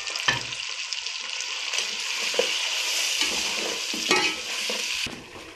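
Onion-tomato masala with freshly added ground spices frying and sizzling in a steel pot. A slotted metal spoon stirs it, scraping the pot a few times. The masala is being fried through before the chicken goes in.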